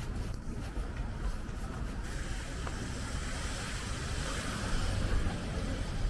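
City street traffic: a steady low rumble, with a vehicle passing that swells and is loudest about four to five seconds in.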